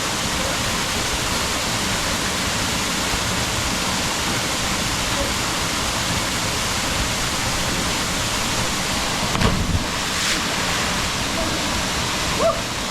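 Waterfall: a steady, dense rush of falling water, with brief louder sounds about nine and a half seconds in and again near the end.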